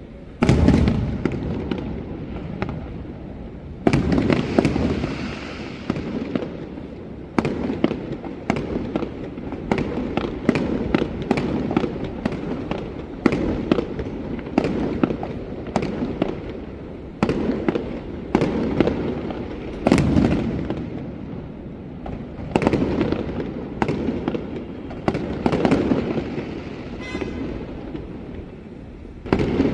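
Fireworks going off in a continuous barrage: many sharp bangs and crackles overlapping, with the biggest blasts about half a second in, around four seconds in, around twenty seconds in and near the end.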